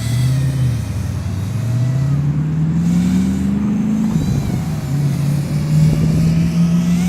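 Eachine Wizard X220 FPV racing quadcopter's motors and propellers buzzing as it flies around, the pitch climbing for a few seconds, dropping sharply about four seconds in, then rising again and holding with the throttle.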